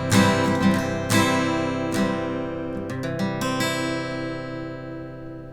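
Acoustic guitar strumming the song's closing chords: a few strummed chords, a quick flourish about three seconds in, then the last chord left ringing and slowly dying away.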